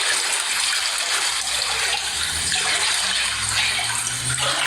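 Floodwater rushing steadily into a house during a hurricane, with a low hum joining about halfway through.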